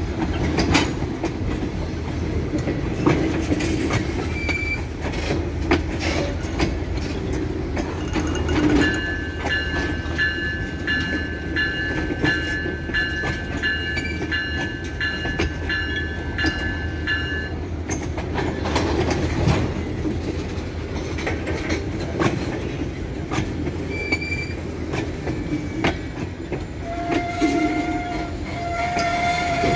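Freight train of tank cars rolling past close by: a steady rumble of wheels with repeated clicks over the rail joints. About nine seconds in, a high ringing tone sounds for about eight seconds, and a lower tone comes in near the end.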